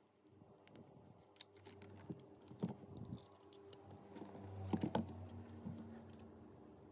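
Scattered small clicks and taps of tools and small parts being handled during an iPhone 12 repair, with a louder cluster of clicks about five seconds in.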